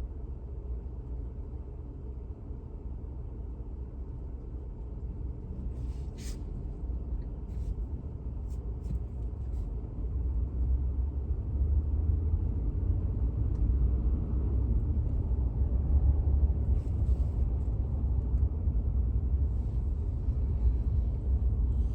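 Low, steady rumble of road and engine noise inside a vehicle's cab while driving on winter roads, growing louder about halfway through. A few faint clicks are heard over it.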